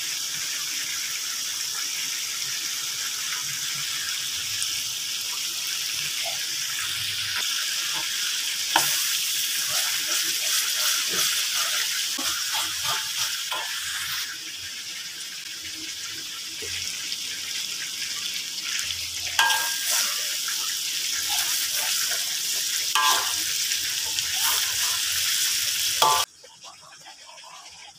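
Spice paste frying in oil in a wok, a steady sizzle, with a metal spatula scraping and clicking against the wok from about nine seconds in; the paste has cooked until the oil separates, and chicken livers are stirred in with it. The sizzle cuts off abruptly near the end.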